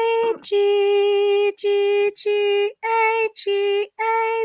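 A woman's voice singing the note names of a beginner band melody, one held note at a time with short breaks between them, each note starting with a brief consonant.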